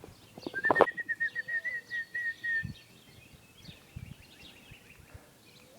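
A bird calling a quick run of about a dozen short, even notes at one pitch, lasting about two seconds, just after a sharp knock. Fainter chirps from other birds go on behind.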